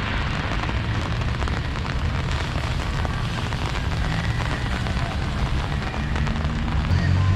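Steady rain falling, over a low rumble.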